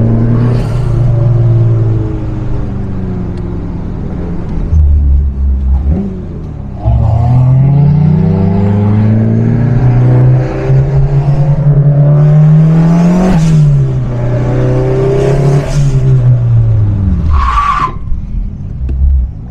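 Turbocharged Fiat Seicento's engine revved repeatedly, its pitch climbing slowly and then dropping back, between stretches of low idle. A short higher-pitched note sounds near the end of the revving.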